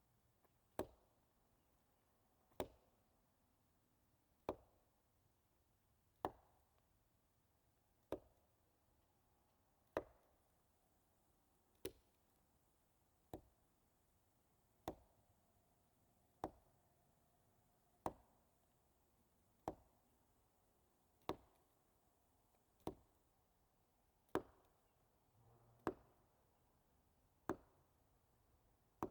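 Wood knocks: wood struck hard against a tree, one sharp knock about every second and a half to two seconds in a steady, even series, each with a brief ring. It is a Bigfoot-seeker's wood-knock signal.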